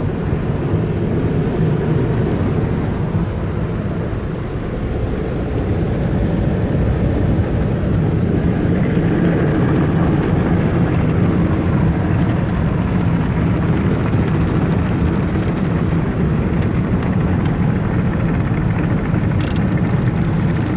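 Ryko Softgloss Maxx car wash brushes spinning and scrubbing over the car, heard from inside the cabin as a steady, loud, low rumble and swish. A short click comes near the end.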